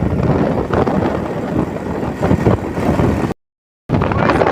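A vehicle engine running steadily, with a rumbling roar and noisy buffeting, cut by a brief gap of complete silence about three seconds in.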